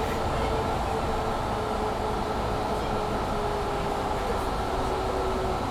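Cabin noise inside a Mercedes-Benz Citaro C2 G articulated bus while it is moving: a steady running and road rumble, with a thin whine that drifts slowly lower.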